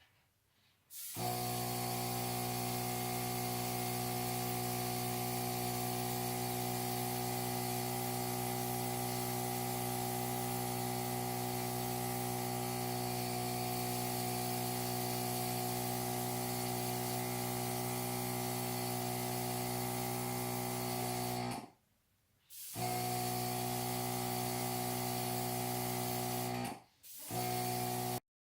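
Airbrush compressor running with a steady hum under the hiss of air spraying paint. It cuts off abruptly twice near the end and starts again each time.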